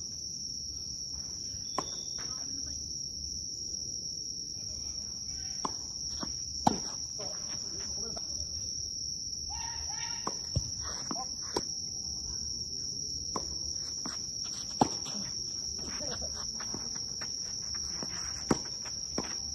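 Tennis ball hits: sharp pops of racket on ball, and of ball on court, at irregular intervals. Under them runs a steady high-pitched drone of insects.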